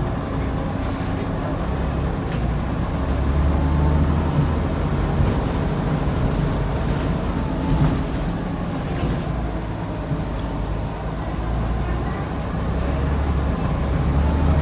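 Scania N94UD double-decker bus's DC09 diesel engine running under way, its note swelling about four seconds in, easing off, then building again near the end.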